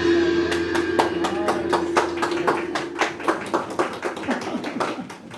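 Rapid, irregular sharp taps, several a second, over a steady ringing tone that fades out about halfway through.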